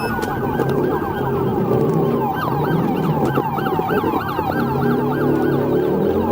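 Police sirens: one in a slow wail rising and falling, joined about two seconds in by a fast yelp of about three sweeps a second, over the running noise of a vehicle engine and road.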